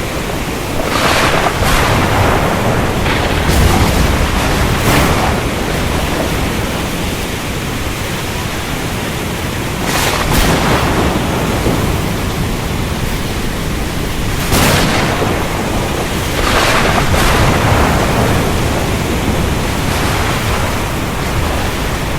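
Thunderstorm over the sea: a steady rush of rain, wind and surf, broken several times by sudden sharp cracks of thunder.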